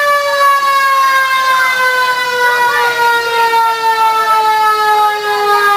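Antique fire truck siren wailing loudly, its single pitch sliding slowly downward the whole time, as a mechanical siren does when it coasts down, with fainter rising and falling siren glides behind it.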